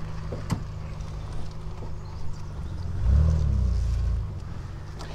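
Triumph Vitesse 2-litre straight-six engine running at low road speed, heard from inside the open-top car. About three seconds in the revs rise and fall again for about a second, the loudest part.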